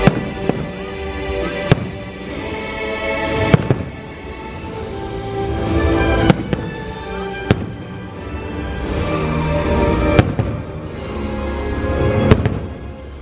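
Aerial fireworks shells bursting in about nine sharp bangs spread a second or more apart, over the show's soundtrack music playing continuously.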